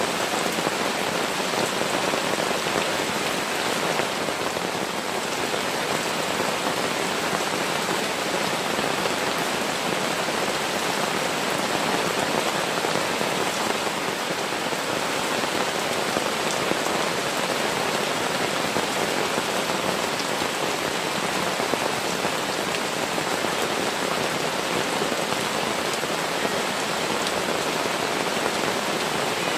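Heavy rain pouring down steadily, a dense even hiss of raindrops.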